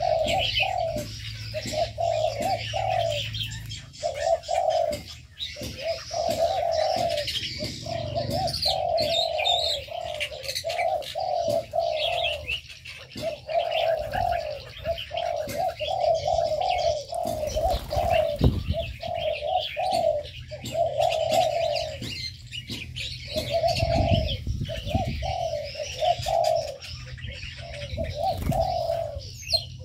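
Doves cooing over and over, their calls following one another almost without a break, while small birds chirp and twitter at a higher pitch. A few low thumps are heard in the second half.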